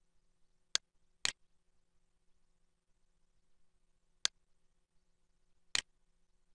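Four sharp computer mouse button clicks, spaced irregularly, over a faint steady low hum.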